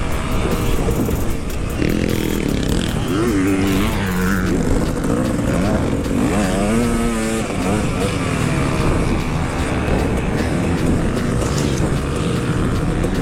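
Dirt bike engine being ridden hard, its pitch climbing and dropping again and again with throttle and gear changes.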